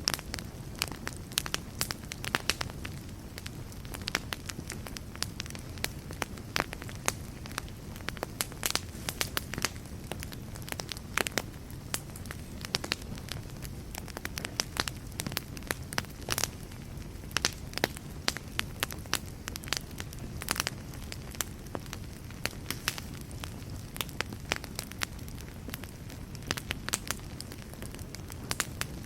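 Wood fire burning in a fireplace: a steady low hiss and rumble of flames with irregular sharp crackles and pops, several a second.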